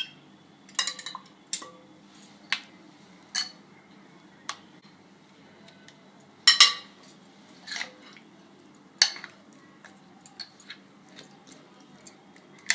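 Kitchen utensils and dishes being handled: irregular clinks and knocks, a dozen or so, the loudest a double knock about six and a half seconds in.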